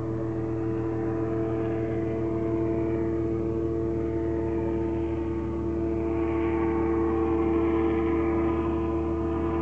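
Cessna 172's piston engine and propeller running steadily at high power for takeoff, a constant-pitch hum with a hiss above it, getting slightly louder about six seconds in.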